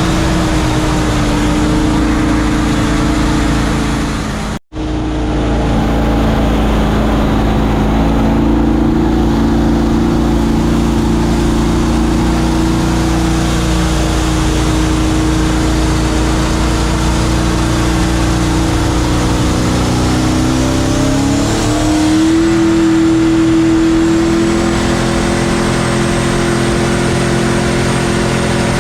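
Boosted E85-fuelled engine of a mini jet boat running hard at a steady high pitch, rising in pitch about 21 seconds in. The sound cuts out for an instant about 4.5 seconds in.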